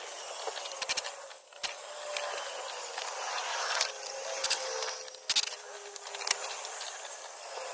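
Scattered metallic clicks and knocks of hand tools working on a scooter, a few single clinks with a quick double click about a second in and again past the halfway mark, over a steady hiss.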